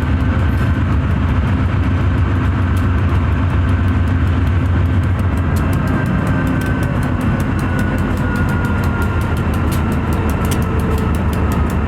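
Diesel freight locomotives running in a rail yard: a steady low engine drone. In the second half, a faint high tone slides slowly down in pitch.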